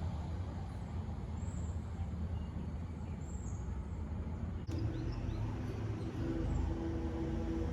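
A steady low engine rumble. About two-thirds of the way through it cuts off abruptly, and a different steady sound with held tones takes over.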